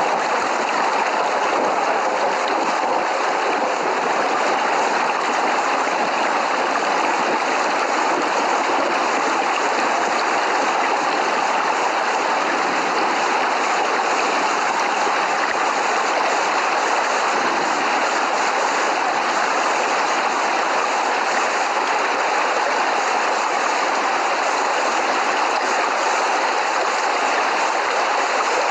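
Heavy rain falling in a steady, unbroken rush.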